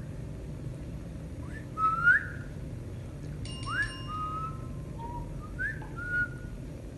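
Pet parrot giving a series of short, rising whistles, spaced out, the loudest about two seconds in.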